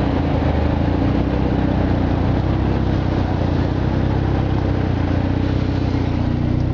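Car engines running at low revs in slow-moving traffic: a constant low hum with no change in pace.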